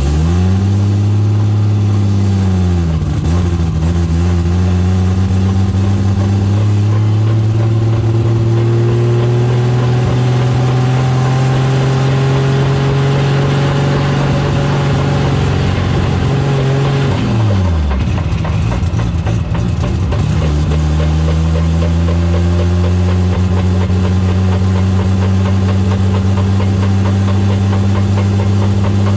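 Toyota Supra on the move, heard from underneath near the rear differential: engine and drivetrain running with a pitch that climbs slowly, dips about three seconds in, falls sharply about seventeen seconds in and then climbs again. The noise comes from a differential whose ring gear has three or four teeth ground down and is close to shattering.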